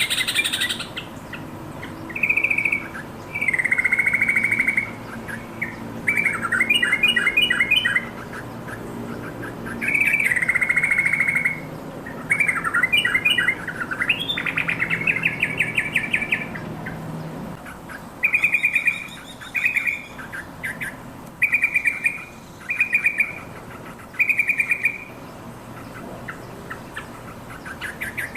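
Yellow-vented bulbul calling: repeated bursts of rapid chattering notes, each about a second long, giving way in the second half to five shorter phrases about a second and a half apart.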